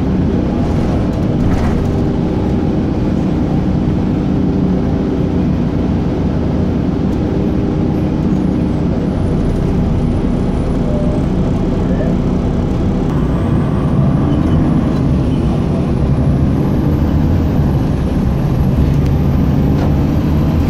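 Steady low rumble of a running motor vehicle with road noise, continuous and unchanging in level.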